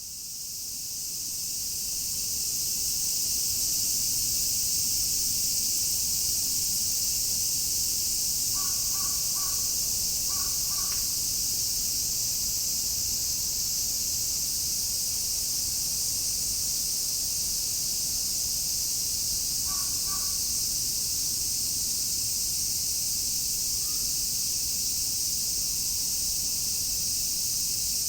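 A dense chorus of cicadas shrilling steadily, fading in over the first few seconds. A bird breaks in with short harsh calls, a handful of them near the middle and a few more about two-thirds of the way through.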